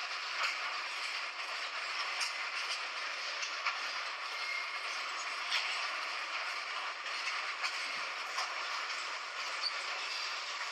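A train running, a steady rushing noise with small clicks and rattles scattered through it.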